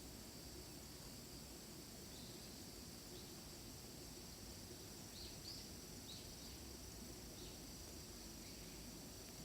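Faint outdoor forest ambience: a steady high insect trilling, with a few short high chirps about halfway through.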